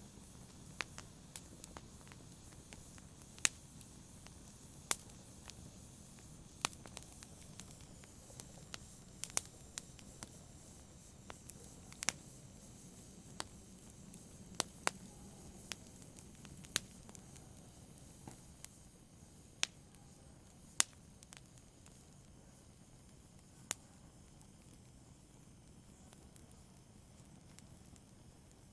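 Wood campfire crackling: sharp, irregular pops and snaps, some loud, over a steady low rustle of burning.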